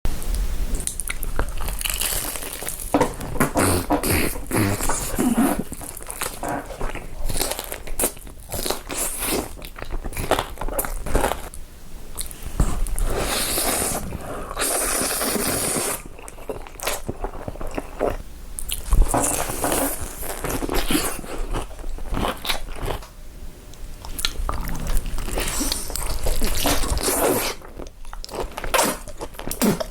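Close-miked biting, crunching and chewing of crunchy food, with many irregular sharp crunches, as in a mukbang eating recording.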